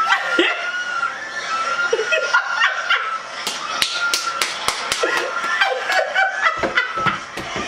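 Laughter, with a quick run of sharp smacks or clicks about three to five seconds in.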